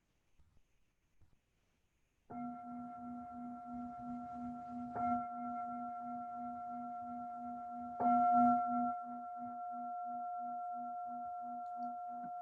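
Meditation singing bowl struck three times, about two seconds in, then twice more about three seconds apart, the last strike the loudest. Each strike is followed by a sustained ring with a low wavering hum. It is the bell that closes the meditation practice.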